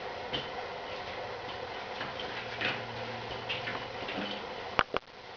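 Kittens playing: scattered light taps and ticks over a steady room hiss, then two sharp clicks close together near the end.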